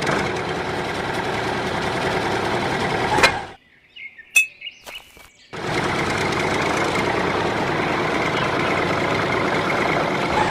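An engine running with a steady, noisy drone. About three and a half seconds in, it cuts out for some two seconds, leaving a few faint bird chirps, then resumes.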